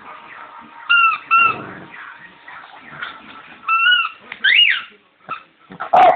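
Squeaky rubber toy bone squeaking in short squeals as a Bichon dog chews and squeezes it: two quick squeaks about a second in, then a longer one and one that slides up and down near the middle. A knock near the end.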